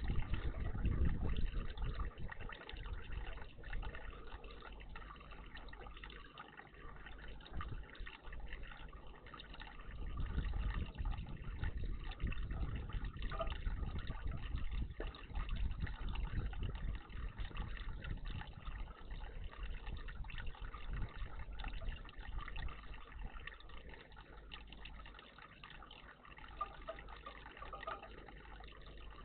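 Water trickling and splashing in a garden bird bath, a steady watery noise that swells and eases, loudest at the start and again from about ten seconds in.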